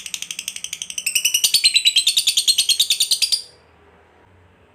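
Lovebird giving its long 'ngekek' call: a rapid, even chattering trill of sharp chirps, about ten a second, that gets louder about a second in and cuts off suddenly about three and a half seconds in.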